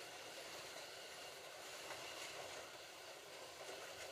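Slot.it slot cars lapping the track: a faint, steady whir of their small electric motors and wheels running on the track.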